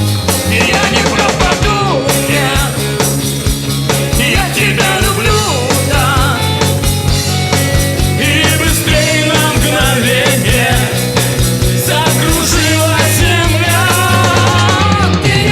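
Live band music: a voice singing over bass and a steady drum beat.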